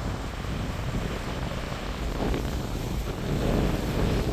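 Wind buffeting the microphone with a low rumble, over small waves washing onto a sandy beach.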